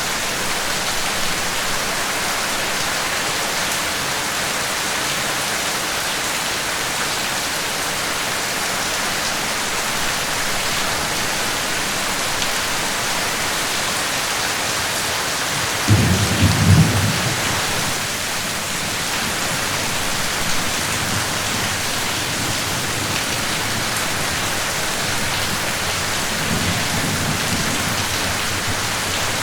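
Steady heavy rain falling. About halfway through, a sudden low rumble of thunder breaks in and lasts about two seconds, and a fainter rumble follows near the end.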